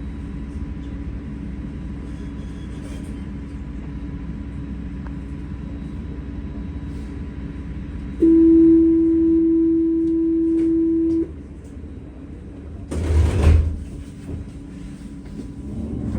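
Tram running with a steady low rumble. About eight seconds in, a steady electronic door-closing warning tone sounds for about three seconds, and a couple of seconds after it stops there is a short loud burst with a thump.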